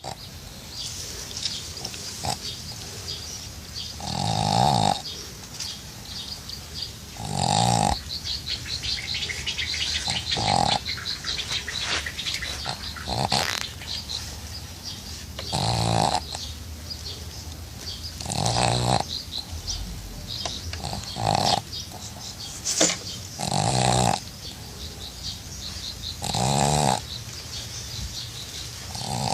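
A pug snoring in deep sleep, with a loud snore about every three seconds.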